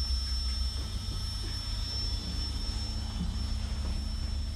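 Steady low rumble of a train, heard from the open back platform of its rear passenger car, with a faint steady high-pitched whine over it.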